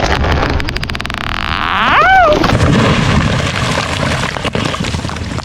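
A felled tree going over: rapid sharp cracks of splitting wood, then a heavy, rumbling crash. About two seconds in there is a short pitched whoop that rises and falls.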